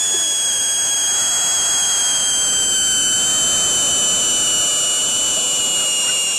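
Piccolo Pete whistling firework burning with a loud, continuous shrill whistle rich in overtones, its pitch sinking slightly as it burns.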